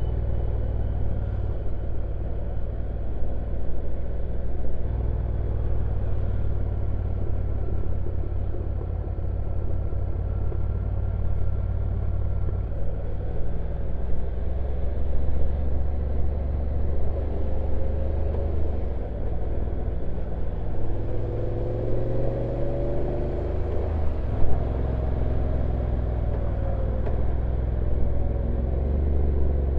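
Honda NC750X DCT's parallel-twin engine running as the motorcycle rides downhill, under a heavy low rumble. Its pitch rises and falls repeatedly in the second half, and there is one sharp knock late on.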